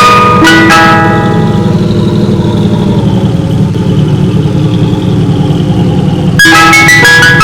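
Ice cream truck's chime jingle playing its bell-like melody, breaking off about a second in. For about five seconds only the truck's idling engine is heard as a steady low hum, then the jingle starts again near the end.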